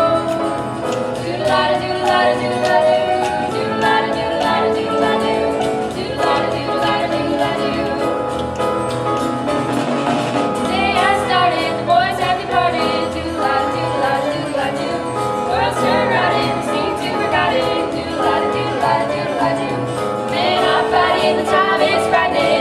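A song from a stage musical: voices singing with instrumental accompaniment, some held notes wavering with vibrato.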